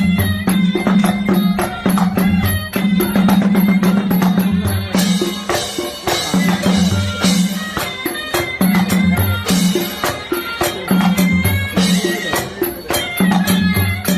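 Southern Thai Manora ensemble music: a driving, repeating drum pattern with dense clicking percussion and a high melody line over it.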